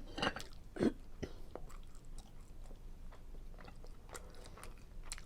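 Close-up chewing and biting of seafood Alfredo pasta: a run of small wet mouth clicks and smacks, with a louder bite about a second in.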